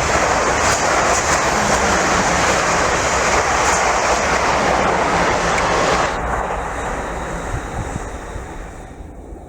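A train passing close by with a loud, steady rush of wheel and rail noise, which drops sharply about six seconds in as it clears and then fades away.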